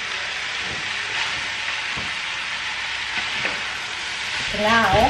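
Diced aubergine, courgette and minced beef sizzling as they fry in a pan, with a few light scrapes of a spatula stirring them. A voice comes in near the end.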